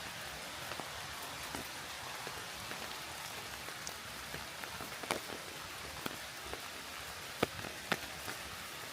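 Steady rain hissing, with scattered individual drops ticking close by; a few louder, sharper drop hits come in the second half.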